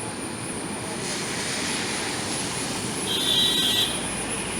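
Steady roar of the Athirapally waterfall's rushing, spraying water. About three seconds in, a brief high-pitched tone sounds over it for under a second.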